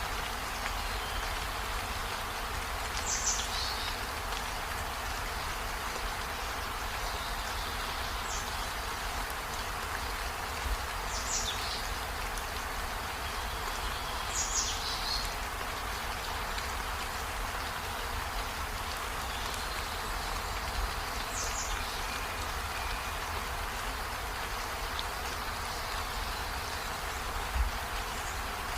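Steady rain falling, an even hiss with a low rumble beneath, while short high chirps sound every few seconds.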